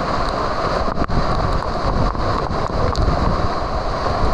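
Loud, steady rushing of a waterfall's falling water, heard close by, with a few faint clicks over it.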